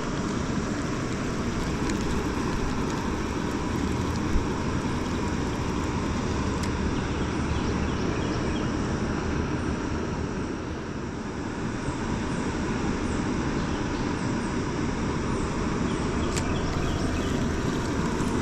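Steady rush of water flowing through a spillway running high after heavy rain, with a single brief click about four seconds in.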